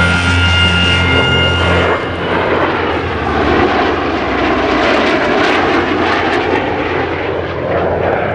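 A formation of airplanes passing low and loud, their engines a steady roar with a slow dip and rise in pitch as they go by. Background music stops about two seconds in as the engine noise takes over.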